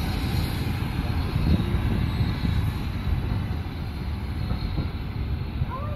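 Train rolling along the rails with a steady low rumble of wheels and carriages.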